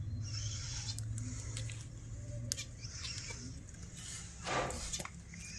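Cockatiel making soft, high chirps and chatter, with scattered small clicks and one short louder noise about four and a half seconds in.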